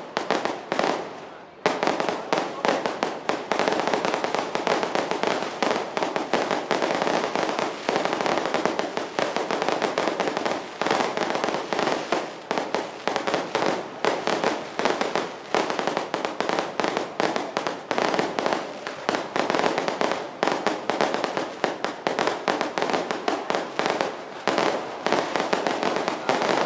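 Firecrackers going off in a dense, continuous run of rapid bangs, with a short lull about a second in.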